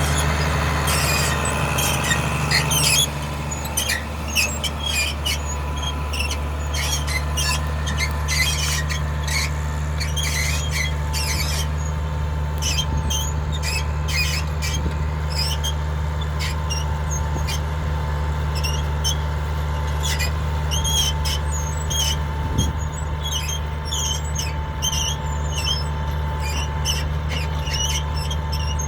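Case IH 1056 XL tractor's six-cylinder diesel engine running steadily under load, while the plough squeaks and squeals again and again like an old spring bed. The squeaks come thickest in the first dozen seconds, then more sparsely.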